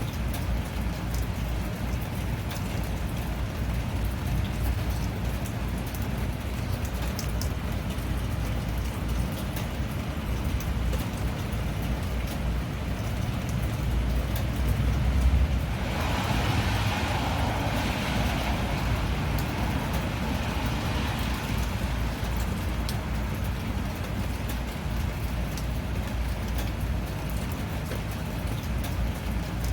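Steady rain, a noisy hiss over a low rumble with scattered faint drop ticks. About halfway through, a louder hiss swells and fades over several seconds.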